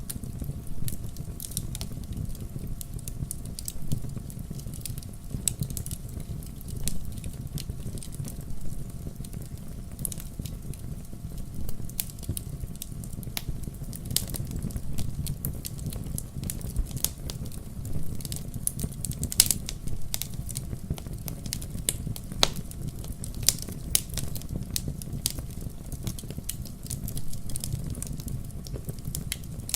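Fireplace fire crackling: frequent sharp pops and snaps over a steady low rush of the burning, with a few louder pops about two-thirds of the way through.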